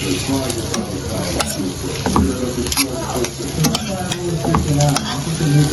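Spoon stirring chicken in a pot, knocking and scraping against the metal with irregular sharp clicks, while the food sizzles in hot oil.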